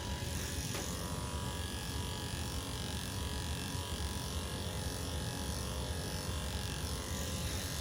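Electric pet grooming clippers running with a steady hum while shaving a cat's belly and armpit fur.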